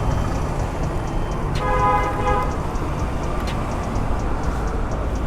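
Motorcycle riding along a road: steady engine and road rumble with wind noise, and a short horn toot about two seconds in.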